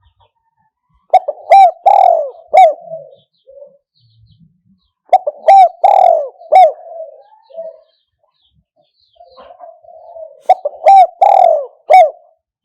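Spotted dove cooing: three phrases a few seconds apart, each a quick run of about four coos with the third note drawn out longest.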